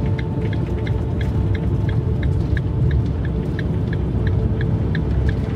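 Steady low road rumble inside the cabin of a Fiat Ducato diesel van driving on a snowy road, with faint background music ticking about four times a second.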